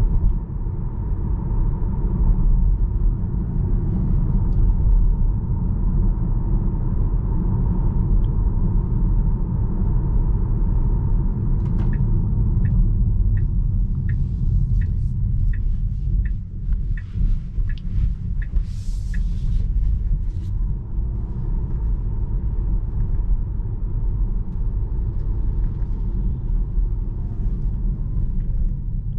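Steady low road and tyre rumble of a 2021 Tesla Model 3 Performance being driven. Partway through comes a run of about a dozen evenly spaced light ticks, a little more than one a second.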